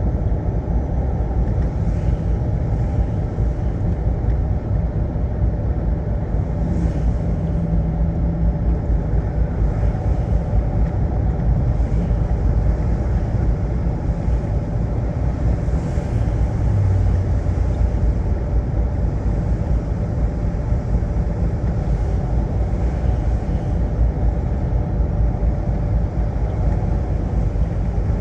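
Semi-truck driving on the road: a steady low rumble of engine and road noise with a faint steady hum.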